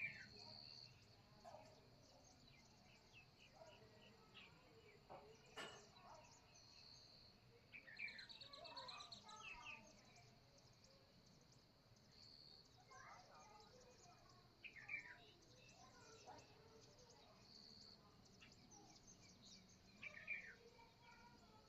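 Faint morning birdsong: several birds chirping and giving short sweeping calls, with one short high whistled note repeating about every five seconds.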